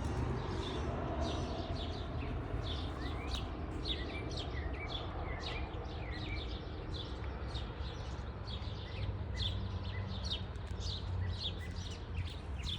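Small birds chirping many times in quick, short calls over a steady low rumble.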